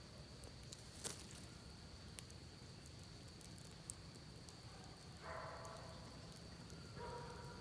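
Campfire crackling with scattered sharp pops, the loudest about a second in, over a steady low rush of creek water. An animal calls about five seconds in and again near the end.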